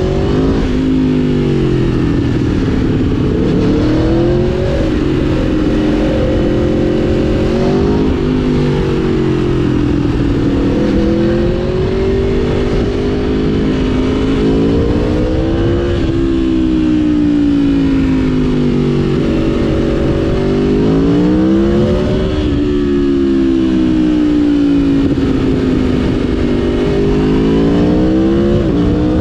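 2011 Aprilia Tuono V4 1000's V4 engine under way, its pitch rising and falling repeatedly as the rider accelerates and eases off, with a few sudden drops in pitch after a climb.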